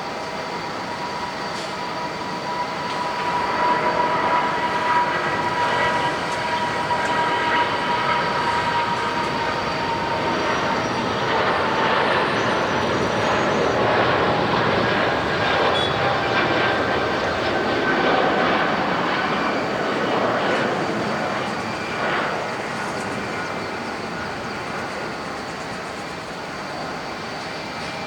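Jet airliner engines passing close by: a high fan whine with the engines' noise swelling over several seconds, staying loud for a long stretch, then fading away near the end.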